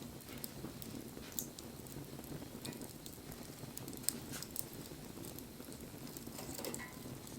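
Wood campfire burning: a steady low rush from the flames with irregular crackles and pops from the burning wood, one sharper pop about four seconds in.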